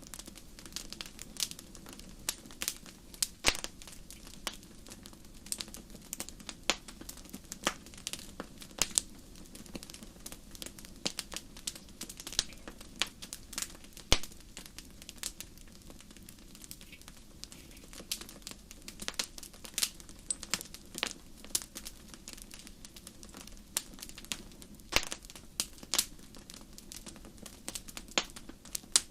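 Wood fire crackling in a fireplace: irregular sharp pops and snaps over a soft low rush of flame.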